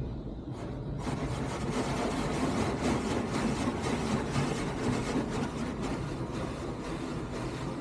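Automatic rollover car wash working on a car: a dense rushing noise of spray and washing equipment comes on suddenly about a second in, over a steady low machinery hum.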